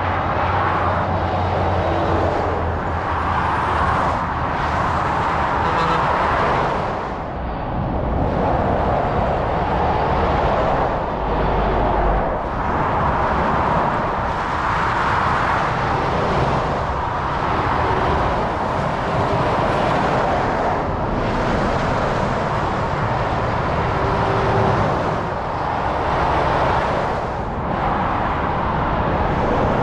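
Continuous motorway traffic: tyre and engine noise from lorries and cars going past, swelling and easing as each passes.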